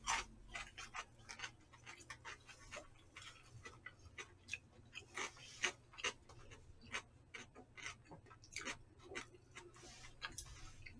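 Close-up eating sounds: soft, irregular wet clicks and smacks of a mouth chewing dak-galbi fried rice, a few a second.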